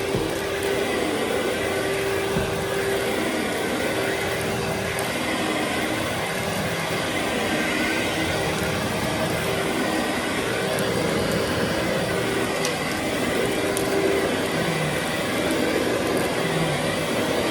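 Vacuum running steadily on carpet: a constant whirring rush with a held hum under it.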